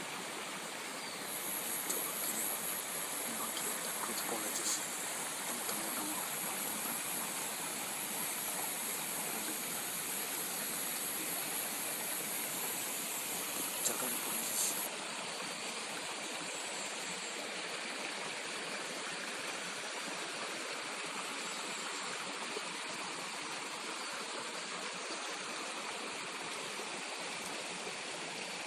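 A stream running steadily, a continuous rush of water. Over it, a high, finely pulsed trill goes on for the first half and then stops.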